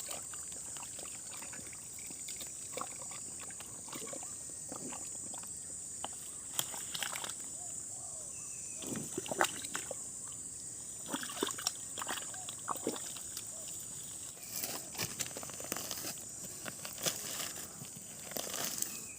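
Shallow water and mud sloshing and splashing in irregular bursts while someone searches a stream bed for eel holes, over a steady high drone of insects.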